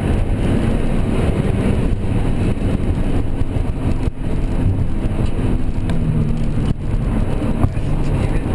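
Car engine and road noise heard from inside a car lapping a race track. The engine note rises and falls in pitch with throttle and gear changes.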